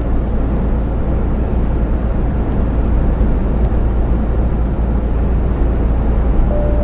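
Iveco truck driving on the motorway, heard from inside the cab: a steady low engine drone with road and tyre noise. A brief faint tone sounds near the end.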